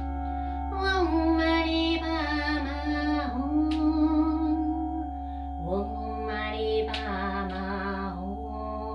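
A female voice singing two long, slow phrases over steady ringing singing-bowl tones, with a low hum underneath.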